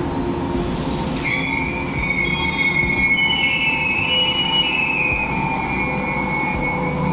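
Train wheels squealing against the rails. Several high, steady tones come in about a second in and hold, over the train's low running rumble.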